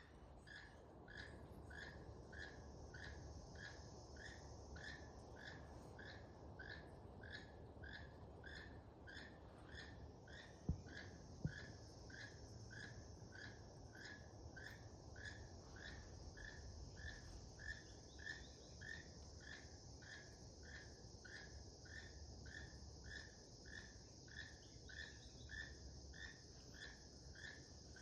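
Faint, steady series of short, evenly repeated animal calls, about two and a half a second, over a high insect buzz that grows fuller about ten seconds in. Two sharp clicks come close together about eleven seconds in.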